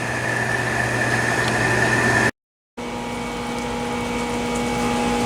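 Steady machine hum with a high, even whine, cut off suddenly about two seconds in; after a brief dead gap, a different steady hum with a lower held tone.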